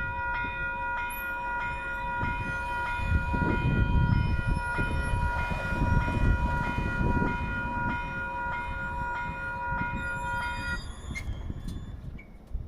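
A train passing with a heavy low rumble, loudest midway. Over it a level crossing bell rings steadily in evenly repeating strokes, then cuts off suddenly near the end.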